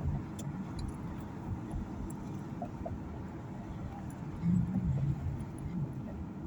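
Steady low road and engine rumble inside a moving car's cabin, with a brief low voice murmur about four and a half seconds in.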